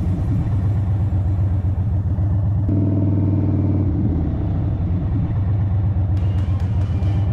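The air-cooled Thunderstroke 116 V-twin of a 2023 Indian Chief Bobber running steadily while the motorcycle cruises at about 50 km/h. A few sharp clicks come near the end.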